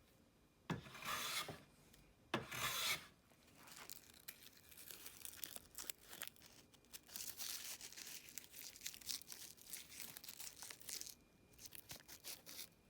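Restored Stanley Bailey No. 5 Type 20 jack plane making two cutting strokes along a wooden board, each a noisy swish of about a second. Then a longer stretch of quieter scratchy, crinkly rustling.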